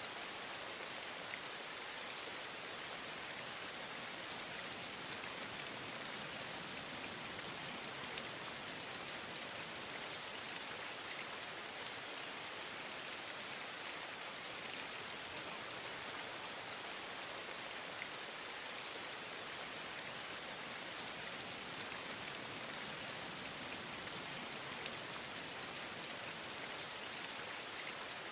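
Steady rain falling in an even hiss, with faint scattered drop ticks.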